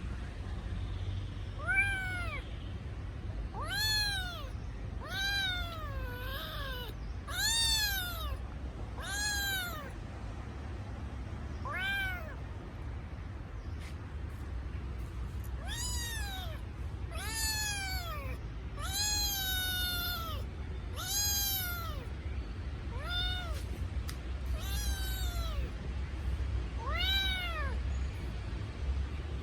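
Kitten meowing over and over, high-pitched cries that rise and fall in pitch, one every second or two with a pause of a few seconds midway: the distress calls of a kitten separated from its mother. A steady low rumble lies underneath.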